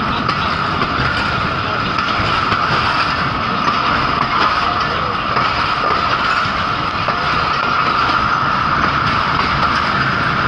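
Train running along the track: a steady, loud noise of wheels and carriage, with a constant higher hum running through it.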